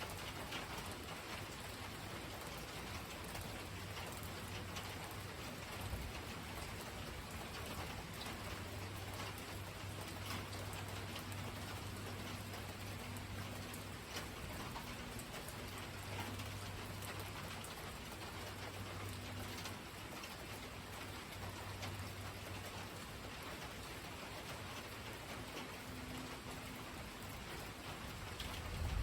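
Steady rain falling, with many individual drops ticking. A faint low hum comes and goes underneath.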